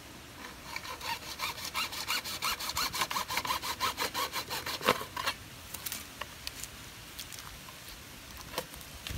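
Hand saw cutting with quick, even back-and-forth strokes for about five seconds, then it stops; a few faint clicks and taps follow.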